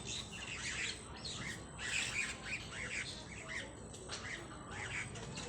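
Birds calling: a string of short, high calls, several a second, overlapping one another.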